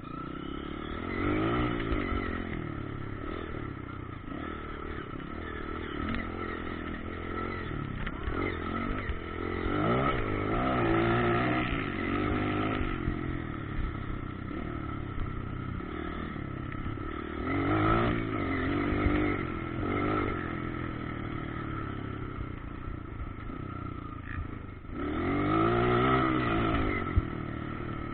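Off-road motocross motorcycle engines revving up and down, their pitch rising and falling again and again. The sound swells several times as bikes come near, loudest about two-thirds of the way through and near the end, with a steady high tone underneath.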